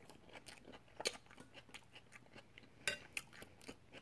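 Close-up chewing of scrambled eggs with white onion: a run of small crunches from the onion, with two louder crunches about a second in and near three seconds.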